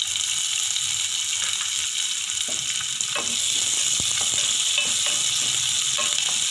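Chopped shallots sizzling in hot oil in an aluminium pot, with a wooden spatula scraping and stirring them from about three seconds in.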